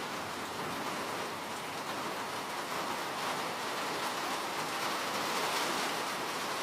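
Steady rain falling, an even hiss of many drops with no distinct individual hits.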